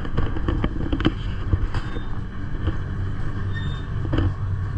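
Gornergrat railway train running, a steady low rumble with scattered knocks and clacks.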